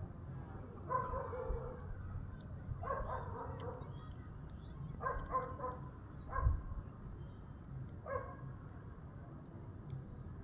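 An animal calling in several short, pitched bursts spread out over a low background rumble.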